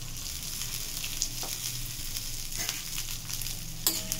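Urad dal and dried red and green chillies sizzling in a little hot oil in a black kadai, with a spoon stirring through them and knocking against the pan a few times. A sharper pair of knocks comes near the end. This is the tempering being roasted until the dal turns reddish.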